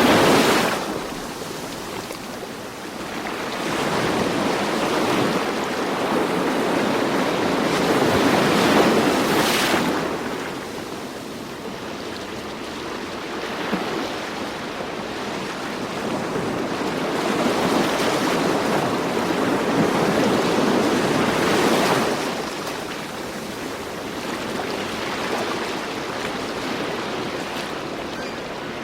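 Ocean surf: waves breaking and washing up a shore in slow surges, each building up and then fading, about every ten seconds.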